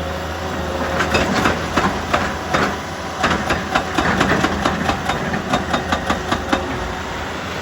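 A heavy machine's engine running steadily under a rapid, irregular series of sharp cracks and knocks of rock against steel, which stop near the end.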